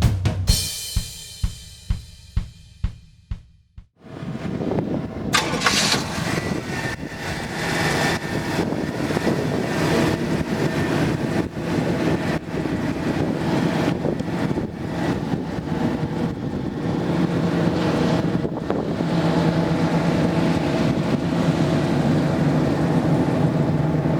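Drum-heavy music ends in the first few seconds. About four seconds in, the 1977 Pontiac Grand Prix's V8 engine starts and then idles steadily.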